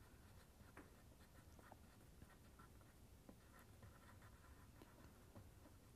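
Faint, scattered scratches of a drawing tool on paper as small strokes are sketched.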